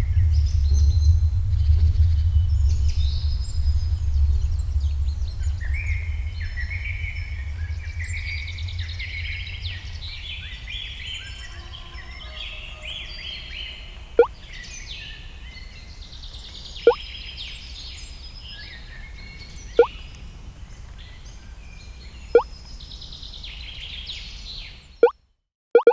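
Birds chirping over a low drone that fades away during the first ten seconds. In the second half, short, sharp blips falling in pitch sound every two to three seconds, and everything cuts off just before the end.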